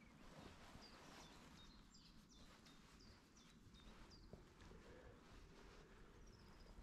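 Near silence with faint bird chirps: short high notes every half second or so, a longer falling trill near the end, over a low background rumble.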